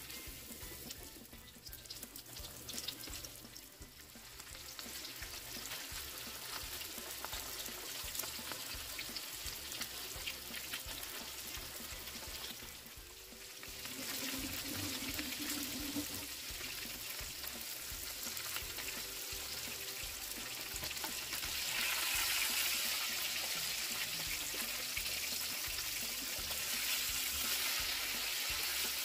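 Breaded beef cutlets frying in oil in a parchment-lined frying pan: a steady crackling sizzle. It grows louder, rising about halfway and again in the last third.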